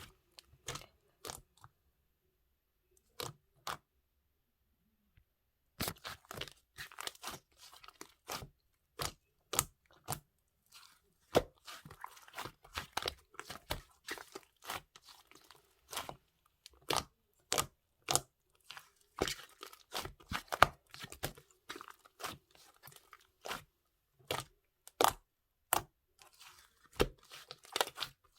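Close-up crunching: irregular sharp crackles and clicks, with a few seconds' pause soon after the start.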